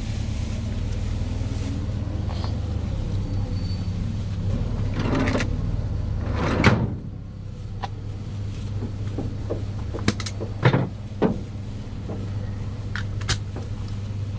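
A steady low hum with a series of sharp knocks and clicks, the loudest about seven seconds in and a quick cluster of three between ten and eleven seconds.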